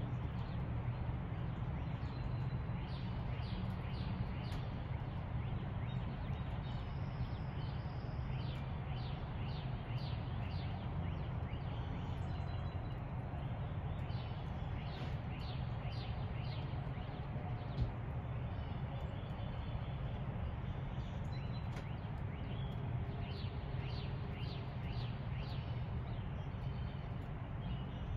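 Wild songbirds chirping in several runs of short, quick, high notes over a steady low background rumble.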